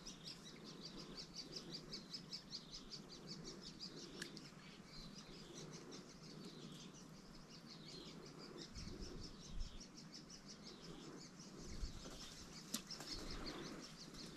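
Faint small-bird calling: a fast run of short high chirps repeated several times a second, over quiet riverside ambience. A few soft low thumps come in the second half.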